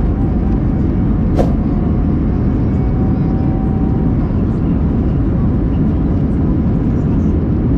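Loud, steady rumble of an Airbus A321-200's engines and rushing air heard inside the passenger cabin, with one sharp click about a second and a half in.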